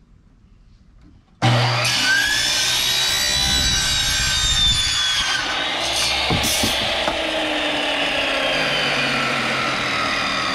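Electric miter saw running at speed and cutting through 1.5-inch PVC pipe: a steady motor whine that starts suddenly about a second and a half in, with a couple of brief scratchy rasps from the blade in the plastic about halfway through.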